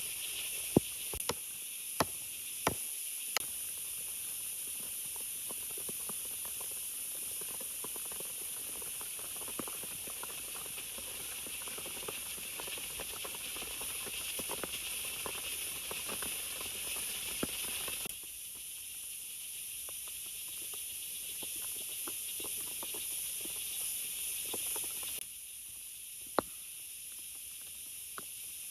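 Steady hiss of heavy rain in forest. Five sharp knocks in the first few seconds and one more near the end, like wood being handled.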